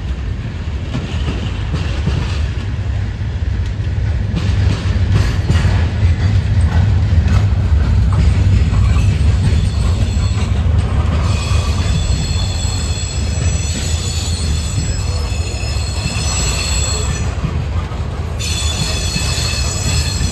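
A train passing close by, with a heavy steady rumble of wheels on rail. About eleven seconds in, a high-pitched wheel squeal starts, fades briefly near the end, and comes back.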